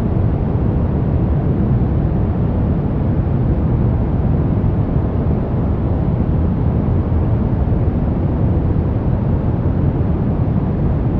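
Steady brown noise: an even, deep rumbling hiss with most of its weight in the low end and little in the highs, unchanging throughout.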